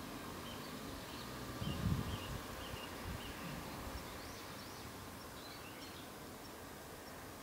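Quiet background noise with faint, scattered bird chirps now and then, and a soft low thump about two seconds in.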